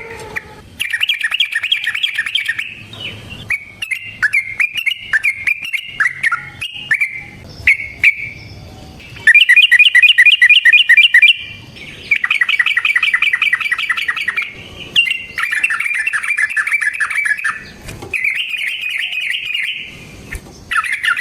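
Yellow-vented bulbul (trucukan) singing a series of fast, rolling, chattering phrases, each a second or two long, with short pauses between them.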